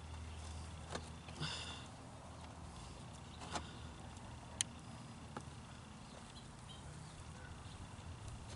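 A few sharp clicks and light knocks, spaced a second or so apart, from mower parts and hand tools being handled during assembly, over a low steady hum.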